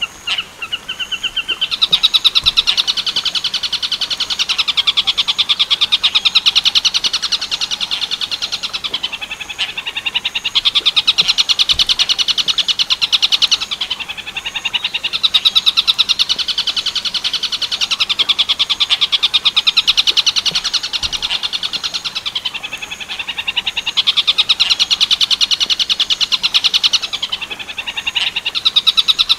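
A songbird's rapid, rattling trill of the 'tengkek buto' type, a training song for long-tailed shrikes, given in long phrases of very fast, even notes that swell and fade every few seconds.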